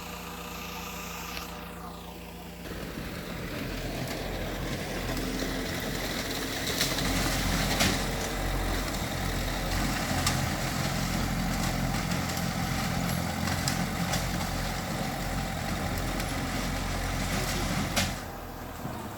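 Mitsubishi bulldozer's diesel engine idling steadily, then working harder from about three seconds in, with a rougher, louder sound and a few sharp clanks along the way. It eases off again near the end.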